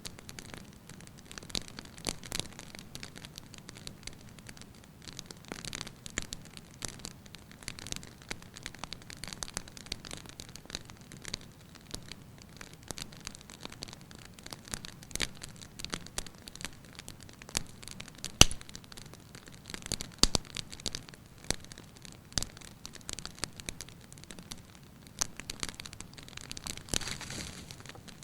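Firewood burning in a fireplace, crackling lightly with irregular snaps and pops over a soft hiss; the sharpest pop comes about two-thirds of the way through.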